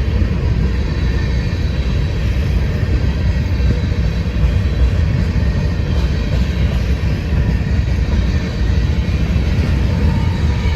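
A train passing close by: a steady, loud low rumble of rolling wheels on rail, with a faint thin steady squeal high above it.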